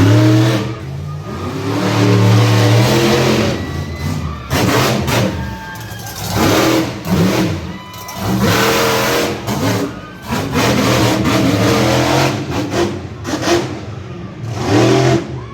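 Monster truck engine revving hard in repeated surges, its pitch climbing and dropping every second or two under heavy engine noise.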